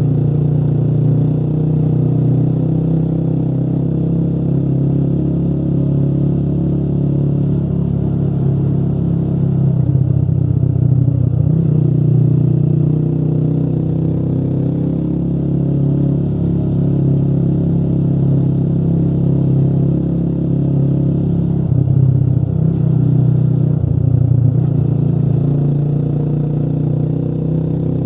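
Motorcycle engine running steadily while riding, its note shifting briefly twice, about ten seconds in and again past twenty seconds.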